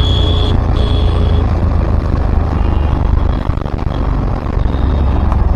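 Steady low rumble of a vehicle moving in city traffic, engine and road noise together, with a thin high steady tone in the first second and a half.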